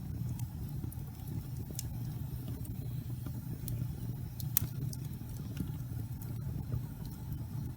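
Wood fire burning: a steady low rumble of flames with scattered sharp crackles and pops, the loudest pop a little past halfway.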